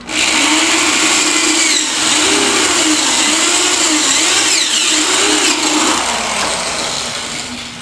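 Electric power tool motor running with a steady rushing noise, its pitch wavering up and down as the load changes, then easing off near the end.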